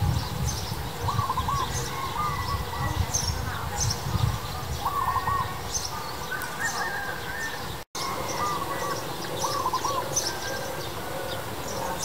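Small birds chirping and calling: repeated short warbling notes and quick high chirps, over a low rumble, with the sound cutting out briefly about eight seconds in.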